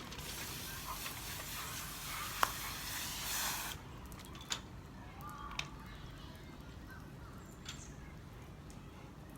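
Water spraying for nearly four seconds, then shutting off suddenly, followed by a few small clicks.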